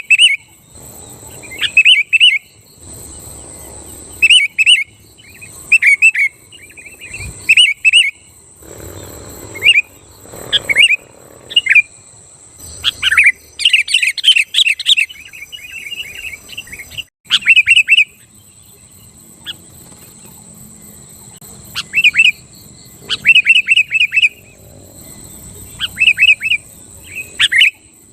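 Sooty-headed bulbul singing: short, loud bubbly phrases of a few quick notes, repeated every second or two with brief pauses between. A faint steady high whine runs behind.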